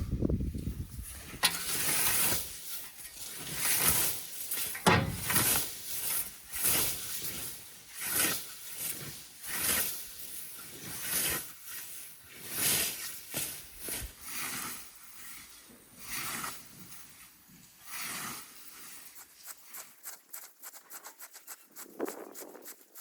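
Rhythmic swishing, rubbing strokes, about one a second, that thin out and fade near the end.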